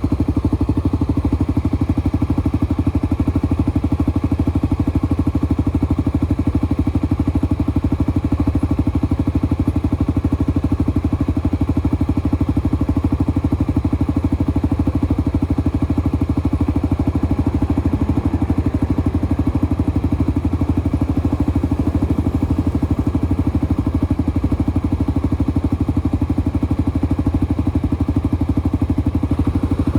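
Single-cylinder four-stroke motorcycle engine running steadily at an even pitch, with no revving.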